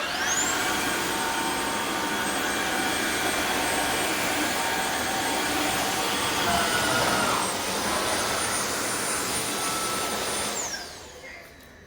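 Tineco Floor ONE S7 PRO cordless wet-dry floor cleaner's suction motor spinning up with a quickly rising high whine and running steadily. Its note changes briefly about two-thirds through, and it winds down with a falling whine near the end.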